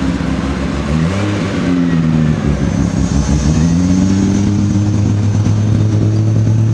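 Car engine being revved: its pitch climbs about a second in, dips, then rises again and holds at raised revs over a steady low hum.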